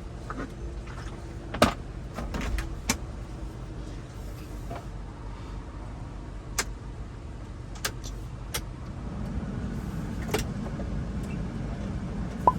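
Mitsubishi Canter truck running with its newly replaced air-conditioning blower fan on: a steady low hum and rush, broken by a dozen or so sharp clicks and light knocks. The low rush grows louder from about nine seconds in.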